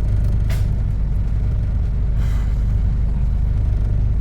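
Steady low rumble of a bus engine heard from on board. Two short hisses of air come through, about half a second in and about two seconds in.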